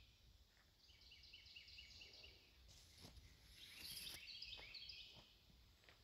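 Faint birdsong: two runs of short, high, stepped notes, about a second in and again near four seconds, over quiet woodland background.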